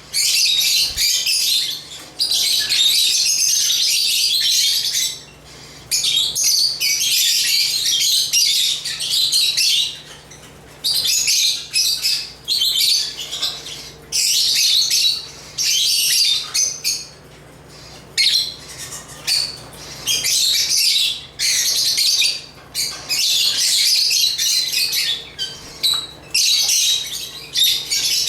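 African lovebirds (Agapornis) chattering: dense, rapid high-pitched chirps and squawks in runs of a second or three, broken by short pauses.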